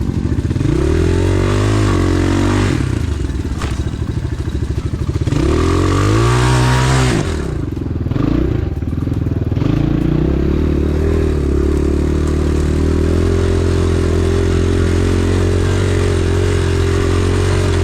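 Enduro dirt bike engine revving up and falling back twice, then running at a steady, even pitch for the rest of the ride.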